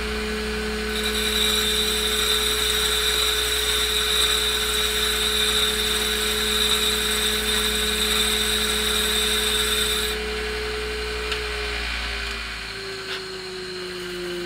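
A grinder motor spins up and runs steadily while a Makita cordless drill whines for about nine seconds, spinning a thoriated tungsten electrode against the wheel to sharpen it for TIG welding. Near the end the drill stops and the grinder slowly winds down.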